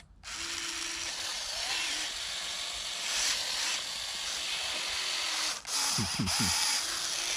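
Huina V4 remote-control excavator's small electric motors and gearboxes whirring as it digs and moves, the whine starting, stopping and shifting in pitch as the controls are worked. A short break just under six seconds in, followed by a few quick falling tones.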